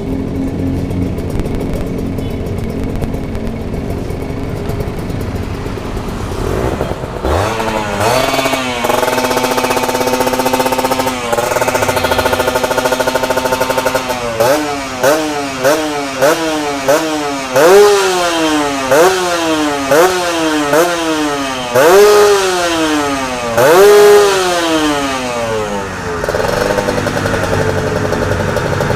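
Two-stroke motorcycle engine through a Corse Project racing expansion-chamber exhaust, idling, then revved up and held high twice. It is then blipped about a dozen times in quick succession, each rev falling back, before settling to idle near the end.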